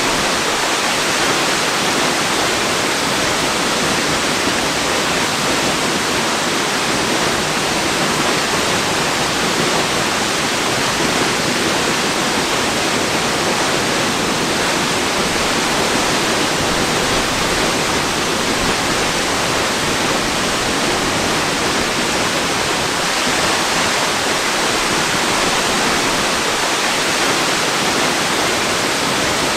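Waterfall rushing: a steady, even hiss of falling water with no change in level.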